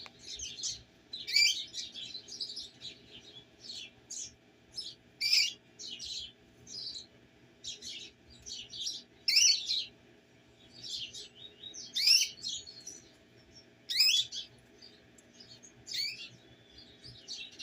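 Domestic canaries chirping: a busy run of short, high chirps and call notes, with a louder sharp call every few seconds.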